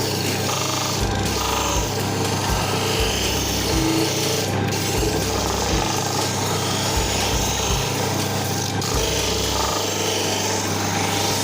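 Homemade electric sander running steadily under load, with the continuous rasp of wood being sanded against the abrasive.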